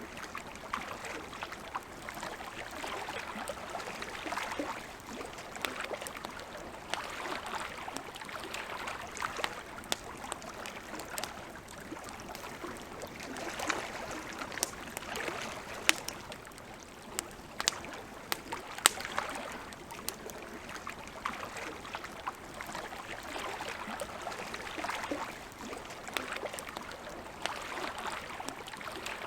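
Wood campfire crackling, with sharp pops scattered throughout, over lake water lapping in soft swells every two or three seconds.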